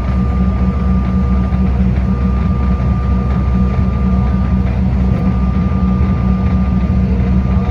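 Bombardier CRJ-900's rear-mounted GE CF34 turbofan engines running steadily at low power, heard inside the passenger cabin: a constant low hum with a steady high whine over it.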